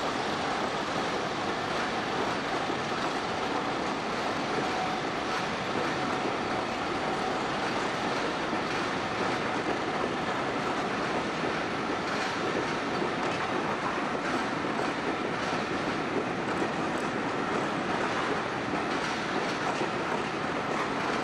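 Train rolling past, its wheels clicking over rail joints, the clicks more noticeable in the second half.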